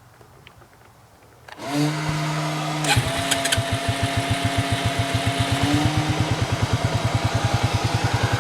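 2002 Arctic Cat 300 ATV's oil-cooled 280cc four-stroke single-cylinder engine being started. The electric starter whines for about a second and a half, then the engine catches about three seconds in and settles into a steady idle of about ten even firing pulses a second.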